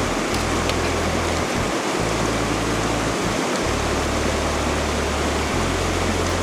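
Steady rushing of a river flowing over rocks, an even wash of water noise.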